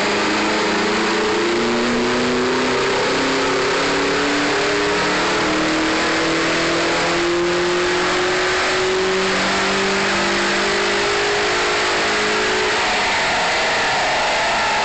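1997 Nissan 240SX's stock KA24DE 2.4-litre inline-four making a dyno pull on a chassis dyno, the engine note climbing steadily through the revs for about twelve seconds and then dropping away as the throttle is released near the end.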